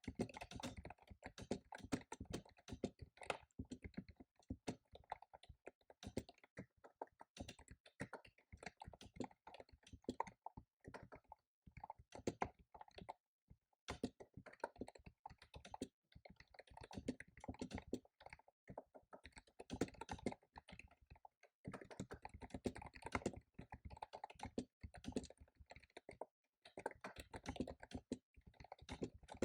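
Typing on a computer keyboard: runs of quick keystroke clicks, broken by short pauses of a second or so.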